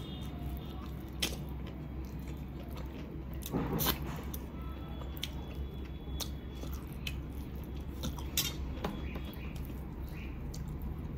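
Close-miked eating of chicken biryani by hand: chewing with sharp wet mouth clicks and lip smacks throughout, and a couple of louder smacks about four and eight seconds in, over a steady low hum.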